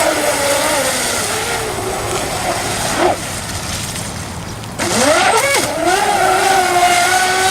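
Radio-controlled S-cat racing catamaran running at speed on the water, its drive giving a loud pitched whine. The pitch sags over the first couple of seconds, sweeps sharply up about five seconds in as the boat comes back on the throttle, then holds a steady high note.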